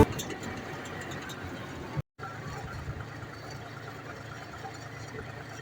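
John Deere tractor engine running steadily. The sound cuts out completely for a moment about two seconds in.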